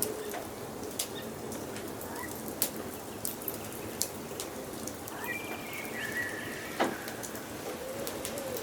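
Wood fire crackling, a steady hiss broken by many sharp pops. Birds sing over it: a high trilled call about five seconds in, and a low cooing call at the start and again near the end.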